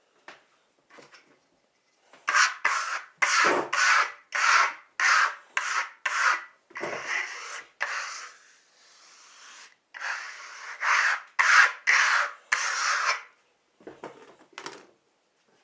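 Repeated rubbing strokes of a hand tool worked over a wall, about two a second, with a short pause partway through and a few fainter strokes near the end.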